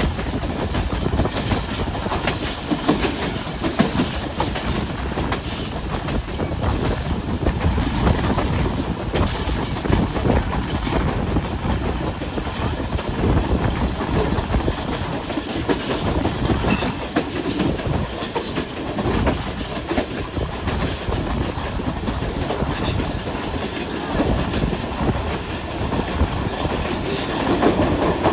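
Hazara Express passenger train running on the track, with a steady rumble and wheels clicking over the rail joints.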